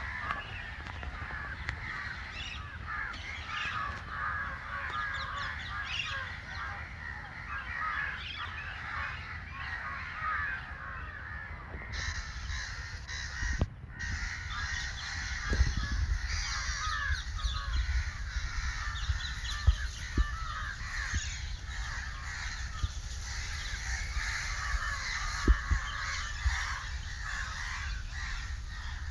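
Dense chorus of many birds calling over one another, with crows cawing among them. A low rumble of wind or handling noise sits on the microphone, and the sound drops out briefly about halfway through.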